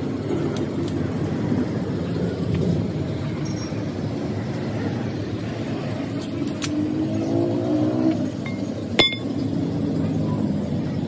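A motor vehicle engine running steadily, with a single sharp metallic clink about nine seconds in.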